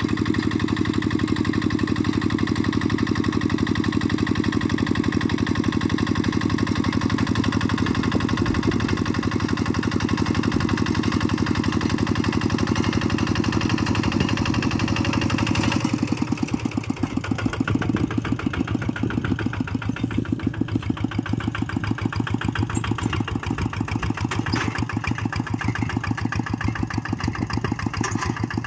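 Engine of a small tractor running steadily while it pulls a plough; about halfway through, the engine note changes to a coarser, more pulsing sound.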